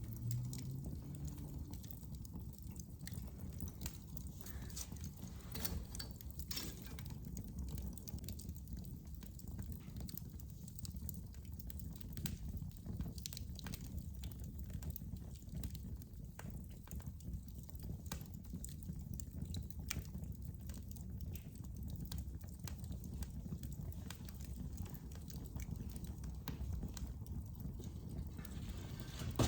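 Wood fire crackling in a fireplace: irregular sharp crackles and pops over a low steady rumble.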